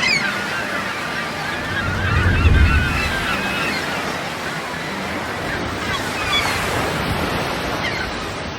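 Sea surf washing steadily, with seabirds giving many short calls over it. A gust of wind buffets the microphone about two and a half seconds in.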